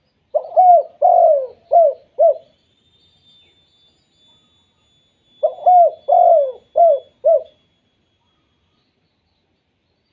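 Spotted dove cooing: two phrases, each of about four short, falling coos, a few seconds apart.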